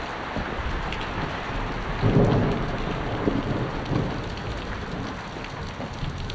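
Heavy rain pouring steadily in a sudden thunderstorm, with a brief louder low rumble about two seconds in.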